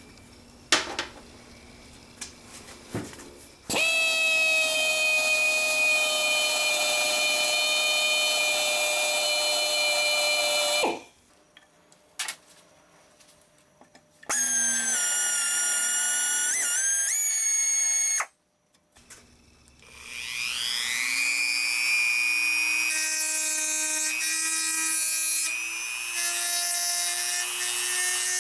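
Electric power tool motor running in three separate spells, each a steady whine with a clear pitch; the last spins up gradually to speed before holding steady. A few knocks come before the first spell.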